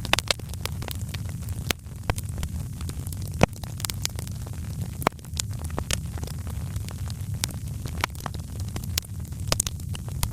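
Wood fire crackling: irregular sharp pops and snaps, the loudest about three and a half seconds in, over a steady low rumble of the flames.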